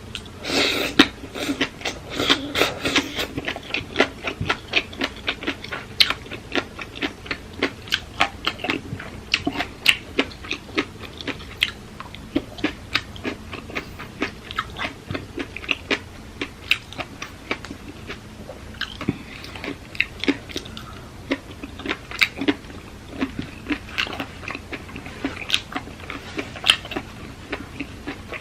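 A person chewing and crunching mouthfuls of papaya salad with squid, a quick run of crisp crunches a few times a second throughout.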